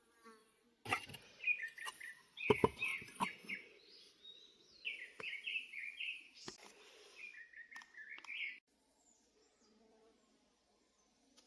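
A small bird singing quick chirping phrases, with a few sharp knocks among the notes; the song stops abruptly about eight seconds in.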